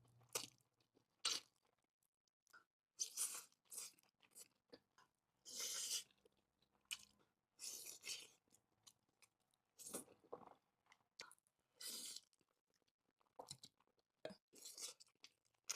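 Close-miked chewing and mouth sounds of a person eating spicy Buldak noodles with rice cakes, coming in short, irregular bursts with quiet gaps between.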